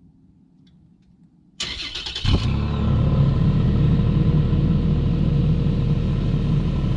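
Car engine cranked by its starter for under a second, then catching about two seconds in and running steadily.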